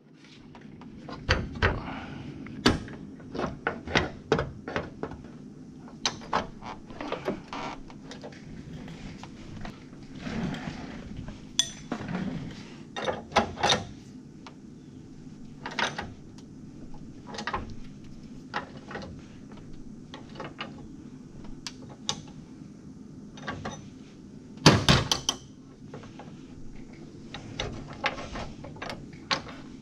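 Irregular knocks, clunks and clicks of tools and parts being handled, with a louder cluster about two-thirds of the way through, over a steady low hum.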